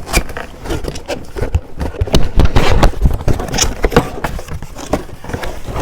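A boxed pack of velvet clip hangers being opened and handled: an irregular run of crinkles, scrapes and sharp clacks.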